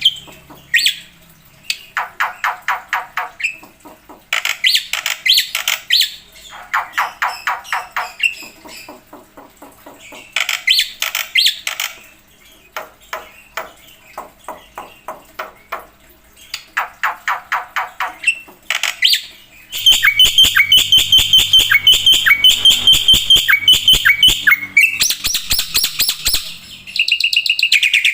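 Black-winged myna singing in bursts of rapid, repeated chattering notes separated by short pauses. About two-thirds through it breaks into a louder, faster run of high piping notes that ends in a steady high trill.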